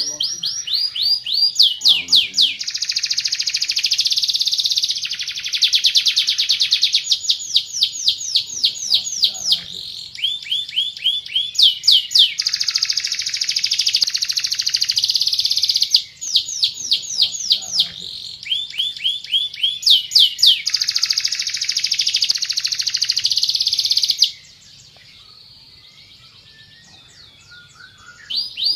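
Van Hesterling song canary singing: long rolls of fast-repeated high notes and rapid trills, phrase after phrase, breaking off for a quiet pause of about four seconds near the end before the song starts again.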